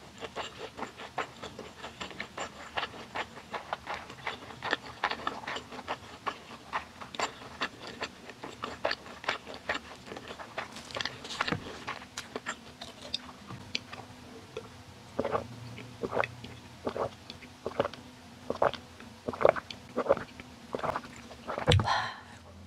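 Close-miked eating of pan-fried beef jeon and spicy bibim noodles: a fast run of wet chewing and mouth clicks for about the first half. After that comes a slower series of louder gulps after a swig from a small yogurt-drink bottle, and one sudden, louder sound just before the end.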